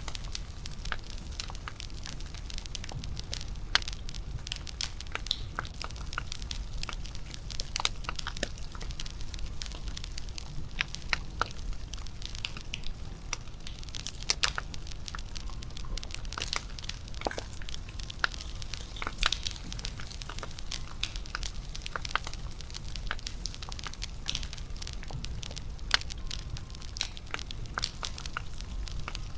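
Wood fire burning and crackling, with irregular sharp pops and snaps over a steady low rumble of the flames.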